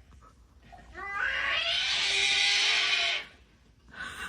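A cat giving one long, drawn-out meow. It starts about a second in, rises at the onset, holds for about two seconds, then fades.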